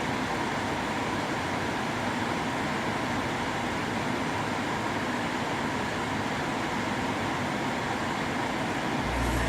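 Steady, even hiss inside the car cabin. Music from the car's sound system comes in with a heavy bass near the end.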